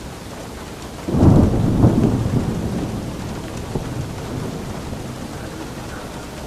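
Steady rain falling, with a clap of thunder breaking about a second in and rumbling away over the next few seconds.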